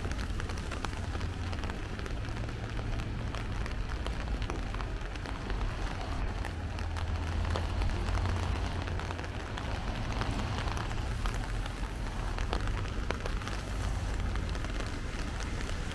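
Steady rain falling, full of small dripping and pattering ticks, over a low continuous rumble.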